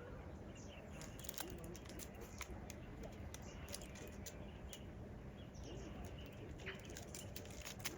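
Faint outdoor ambience with scattered short clicks and a few brief bird chirps.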